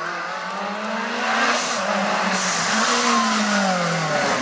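Lancia Delta S4 Group B rally car's twin-charged four-cylinder engine running under hard acceleration and lifting off. Its pitch rises and falls twice as it gets louder.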